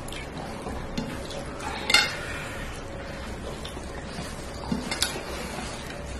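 Food being mixed and eaten from a plate: soft rustling and squelching, with sharp clinks against the plate, the loudest about two seconds in and another about five seconds in.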